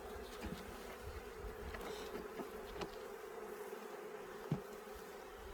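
Honeybees buzzing from an opened hive in a steady, even hum, with a few light clicks and knocks over it, the sharpest about four and a half seconds in.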